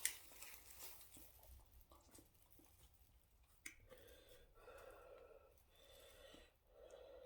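Faint chewing and mouth sounds of someone eating fufu and soup, with one sharp click about three and a half seconds in.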